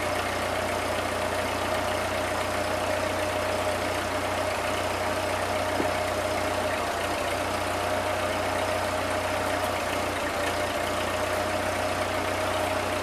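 Ford 9N tractor's four-cylinder flathead engine idling steadily.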